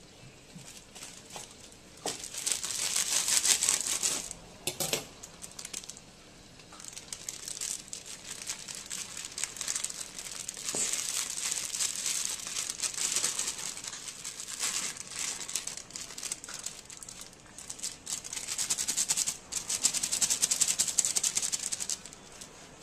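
Pork sizzling and crackling in a hot wok as it is stirred with a wooden spatula and cooked rice is added. The crackle comes in loud spells of a few seconds, with quieter gaps between.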